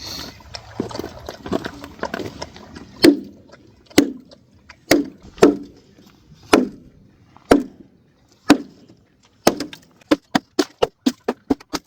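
Hard hollow knocks on a frozen duck water container, breaking the ice loose: single blows about a second apart, then a quick run of about a dozen near the end.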